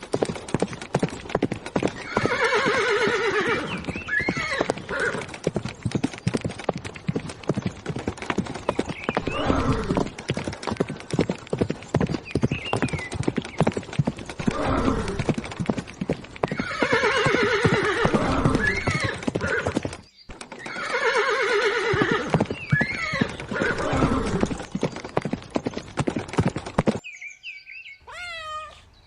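Horse walking with steady clip-clop of hooves, neighing several times in long whinnies that fall in pitch.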